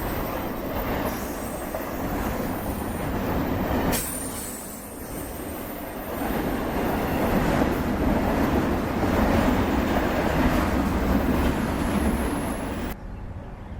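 Freight train cars rolling past on the rails, a steady rumble with a faint high squeal from the wheels. The sound jumps abruptly about four seconds in and cuts off near the end.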